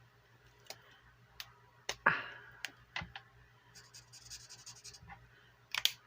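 Coloring in a square on a paper savings-challenge chart: a few scattered clicks and taps of handling, then about a second of quick, scratchy pen strokes on paper about four seconds in.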